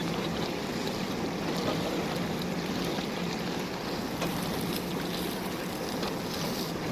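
JCB backhoe loader's diesel engine running steadily with a constant low hum.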